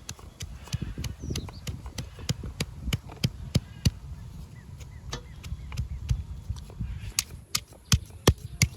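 Knife chopping on a cutting board in quick, fairly even strokes, about three a second.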